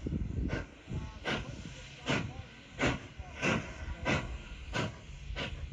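Nevada Northern Railway steam locomotive 93, a 2-8-0, exhausting in slow, regular chuffs of steam, about three every two seconds and quickening slightly, as it works at low speed.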